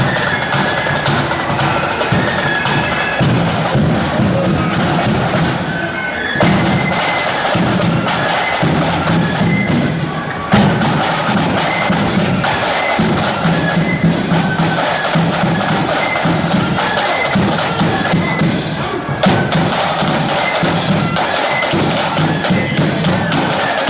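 Marching flute band playing: high flute melody over rapid snare drum rolls and a steady bass drum beat.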